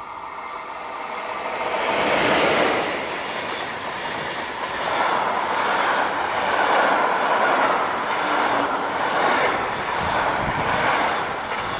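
A train passing along the line. It grows loud about two seconds in, runs on with the rumble of wheels on rail swelling and dipping, and begins to fade near the end.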